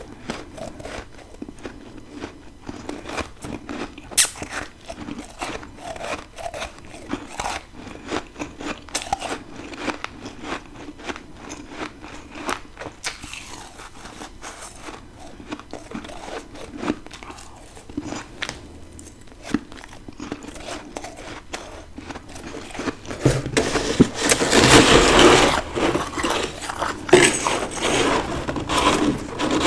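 Deep-freezer humidifier frost being bitten and chewed close to the microphone: a run of crisp, separate crunches. Near the end a louder, continuous rasping takes over.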